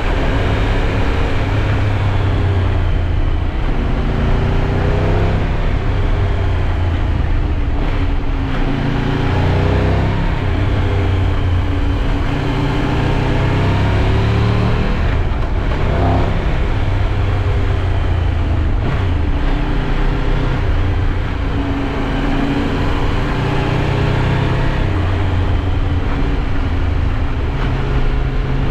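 Triumph Tiger 1200 Rally Pro's three-cylinder engine under way, its pitch rising and falling again and again as the bike accelerates and changes gear, over steady road and wind noise.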